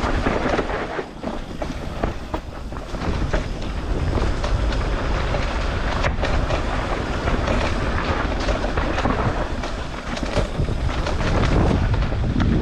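Mountain bike descending a dirt trail: wind buffeting the microphone over a continuous rumble of tyres on rough ground, with many small rattles and knocks.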